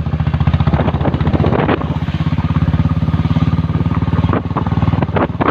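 Motorcycle engine running steadily while riding, with a fast, even firing pulse.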